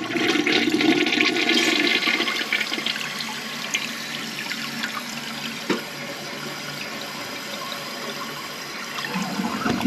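Toilet being flushed: a loud rush of water for the first two seconds or so, then a quieter, steady run of water as the bowl drains and the tank refills. The toilet is one reported to flush weakly, needing several flushes to clear.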